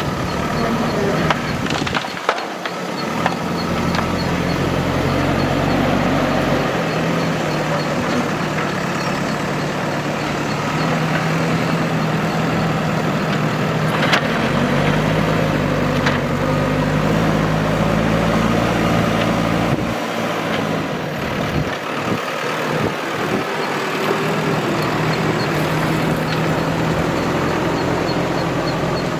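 Heavy diesel engine of construction machinery running steadily, its pitch rising and falling a little with the work, with a few sharp knocks.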